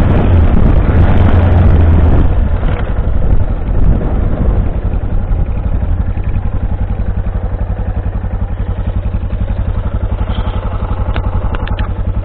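Yamaha XT660Z Ténéré's single-cylinder engine under way on gravel, then slowing to a stop about three seconds in and idling with an even, rapid pulse. A few light clicks near the end.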